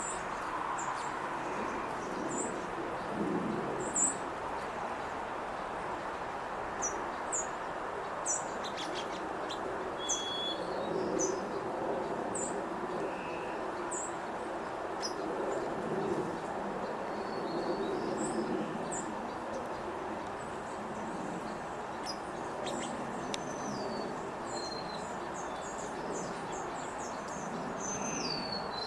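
Small songbirds, mostly white-crowned and golden-crowned sparrows, giving many short high chip calls, with a few brief falling whistled notes near the end. Under them runs a steady low background rumble.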